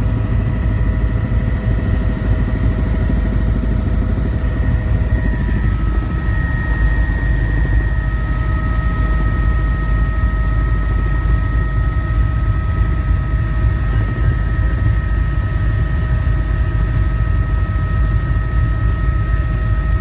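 Helicopter in flight: a loud, steady low rumble with several steady whining tones above it, whose pitches change about five seconds in.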